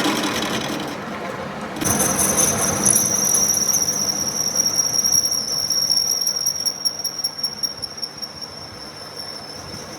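Workshop metalworking machine running, then a sudden high-pitched metallic squeal starts about two seconds in and holds steady with uneven crackling peaks, slowly fading toward the end.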